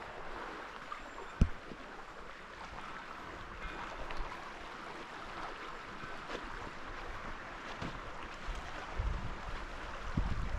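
Lake Superior waves washing against the shore, a steady noisy wash, with a single sharp click about a second and a half in and a low wind rumble on the microphone near the end.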